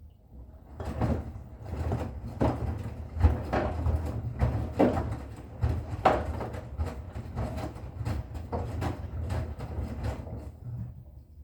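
Bosch Serie 6 washing machine turning its drum in a wash cycle: a low motor hum with irregular knocks and swishes of the tumbling laundry, starting about a second in and stopping shortly before the end.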